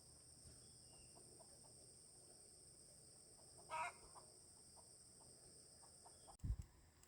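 Steady high-pitched chirring of insects, with a single short chicken call about four seconds in. A low thump comes near the end.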